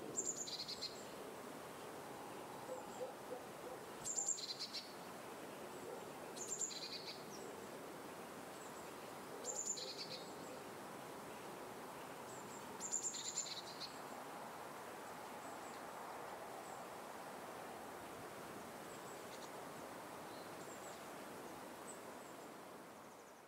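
Outdoor ambience with a steady background hiss, and a bird giving a short, high-pitched call five times, every few seconds.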